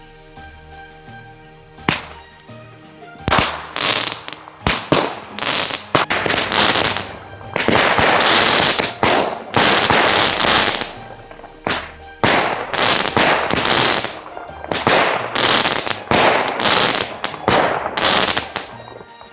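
Small 'Gnom' consumer firework cakes firing a rapid run of shots from about three seconds in, each shot trailed by a crackling hiss, the shots thinning out near the end. Music plays under them.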